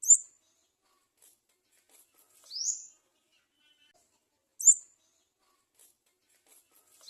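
Garden sunbird chick calling for food at the nest with short, high-pitched calls: two sharp, loud chips about four and a half seconds apart, and a rising squeak between them.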